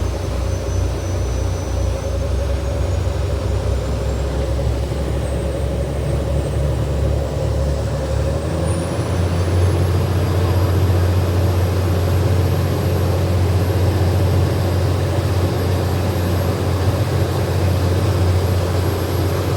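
Passenger ferry's engines running under way: a loud, steady low drone with a thin high whine over it. About eight seconds in, the drone and the whine both shift up in pitch and then hold steady, as the engines change speed.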